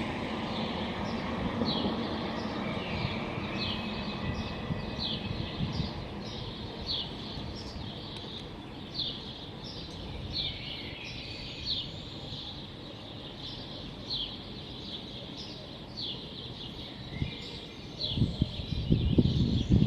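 A songbird singing a long run of short, high notes that slide downward, repeated about once a second, over a steady low rumble of city traffic. The low rumble swells louder near the end.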